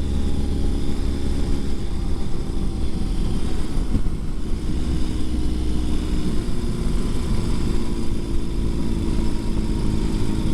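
2020 Ural Gear Up sidecar motorcycle's boxer twin engine running steadily under way, a deep low rumble with a slight change in engine note about four seconds in.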